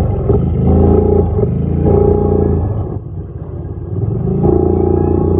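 Dirt bike engine running under throttle. It eases off about three seconds in and picks up again a second and a half later.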